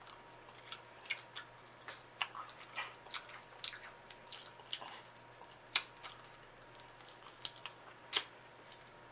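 Snow crab leg shells being cracked and snapped apart by hand: a string of sharp, irregular clicks and cracks, the loudest about six and eight seconds in, with chewing between them.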